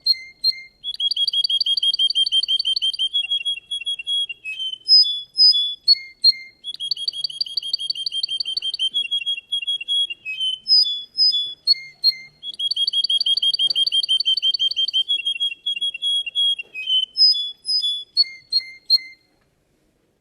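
Russian canary singing. Its song is a fast, high trill about two seconds long, given three times, with short separate whistled notes between the trills. The song stops near the end.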